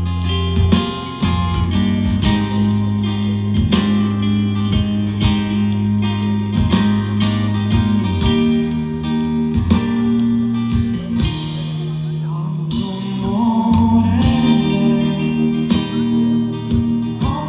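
Live rock band playing an instrumental passage of the song: guitar over bass, with drums hitting at a steady beat.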